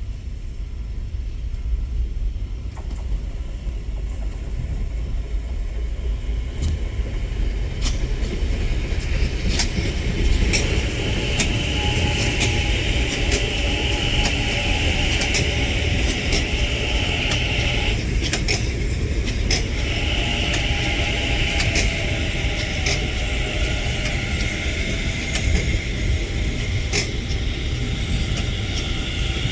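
CSR electric multiple-unit train running on the rails: a steady low rumble with repeated clicks of wheels over rail joints. From about ten seconds in, a high whine joins it and breaks off briefly near the middle.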